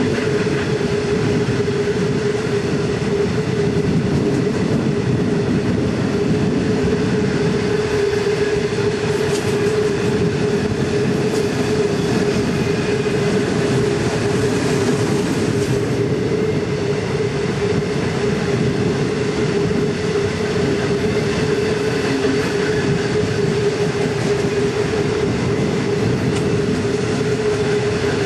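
Loaded iron ore wagons of a very long ore train rolling steadily past: a continuous rumble of wheels on rail, with a steady whining tone held over it.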